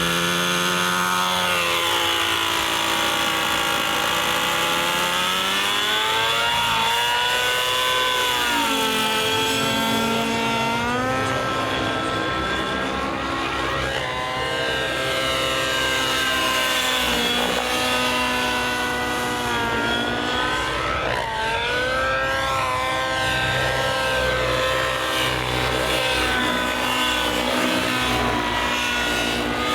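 Radio-controlled model airplane flying passes overhead: its engine's pitch drops and rises again with each pass, several times over.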